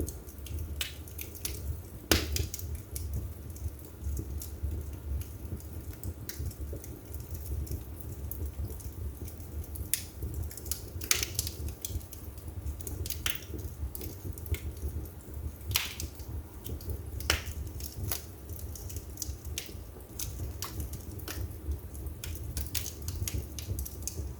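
Burning firewood crackling in a fireplace, with irregular sharp pops and snaps, the loudest about two seconds in and several more in the second half, over a low steady rumble.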